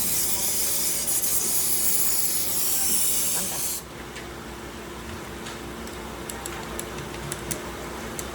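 A loud steady hiss that cuts off suddenly about four seconds in, leaving a low hum with scattered light ticks.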